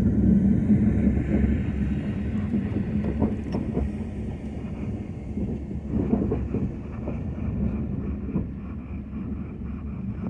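Ford F-250 pickup truck running with a steady low drone, with irregular knocks and rattles over it.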